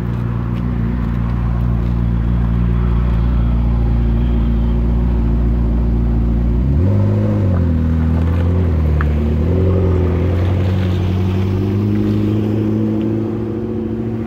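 McLaren 12C's twin-turbo V8 running steady and low as the car pulls out, then revving up about seven seconds in. The pitch rises and dips a few times as it accelerates past, then holds a steadier, higher note.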